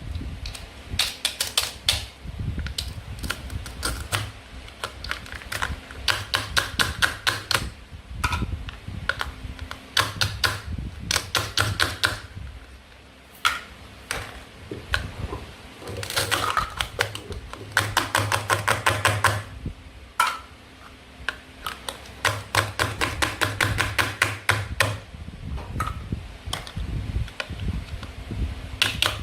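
Plastic toy play food being handled and cut, making fast runs of sharp clicks a second or two long, again and again, with single taps between runs.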